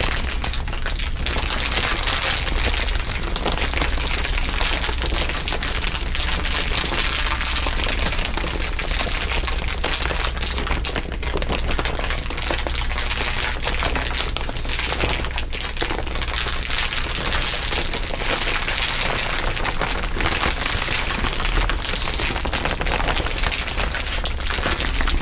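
Dense, continuous ASMR crinkling, many crinkles layered over each other into a steady crackle, over a steady low hum.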